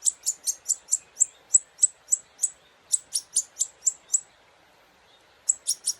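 Hand-reared baby goldfinch giving rapid, high-pitched begging chirps, about four a second, while being fed from a syringe. The chirps break off for about a second and start again near the end.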